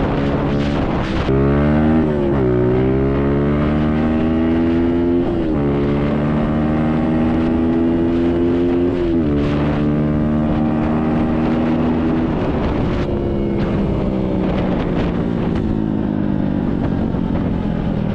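SSR 150 dirt bike's single-cylinder four-stroke engine pulling hard at full throttle. The revs climb and drop sharply at three upshifts, then hold high and sink slowly near the end as the throttle eases off after the top-speed run.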